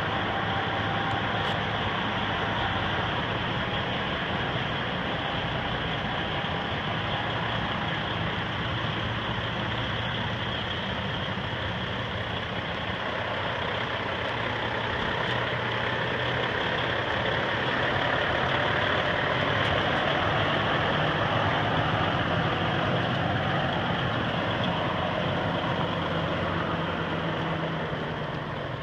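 Diesel engine of a 2003 International 9200i 6x4 semi truck running steadily, growing a little louder for a few seconds past the middle.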